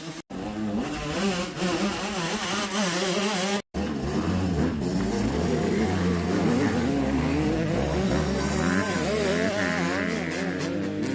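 Several dirt bike engines revving and running at once, their pitches rising and falling as the riders work the throttles. The sound cuts out abruptly twice near the start.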